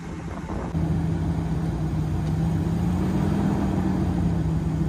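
Dodge Durango's engine running steadily at low speed. It gets louder about a second in, and rises a little in pitch near the middle before settling back.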